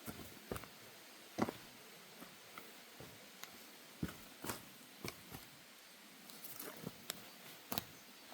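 Footsteps on a wooden deck boardwalk: short, sharp knocks at an uneven pace, roughly one to two a second.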